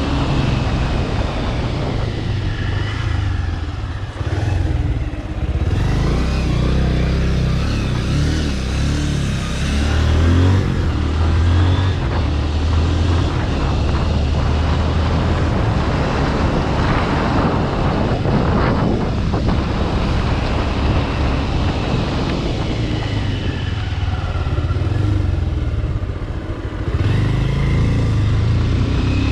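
Bajaj Pulsar RS200 single-cylinder engine running through a modified aftermarket exhaust while riding, the note rising and falling with the throttle. Twice it drops briefly and then picks up again.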